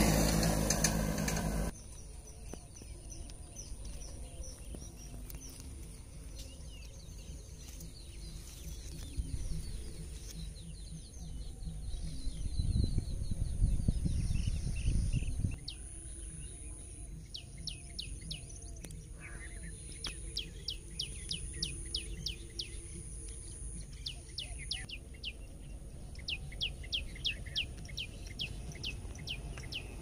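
Birds chirping, with several runs of quick, evenly repeated high notes in the second half and a faint steady high whine. Low wind-like rumble on the microphone at the start and again around the middle.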